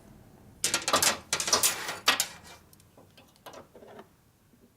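Handling noise from a part being worked by hand: a quick run of rattles and scrapes about a second in, then a few faint clicks.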